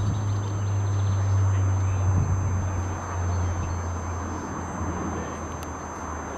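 A steady low engine hum that drops slightly in pitch about three seconds in.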